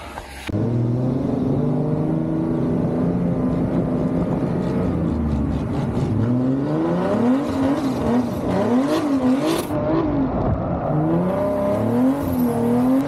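Turbocharged BMW E36 drift car's engine on track, heard from the car's own onboard camera: it starts suddenly, runs steadily, and from about halfway through the revs swing up and down about once a second as the throttle is worked.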